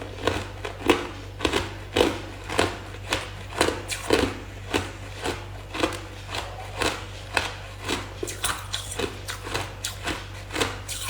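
Hard ice being crunched between the teeth: a person chewing ice, with sharp crisp crunches coming steadily about twice a second.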